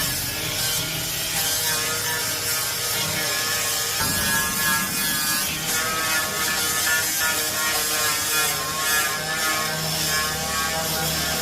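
A machine or power tool running with a steady, fast mechanical rattle, changing in pitch about four seconds in.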